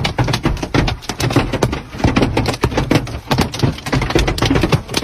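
Hailstones pelting a hard surface: a dense, irregular clatter of sharp hits, many a second.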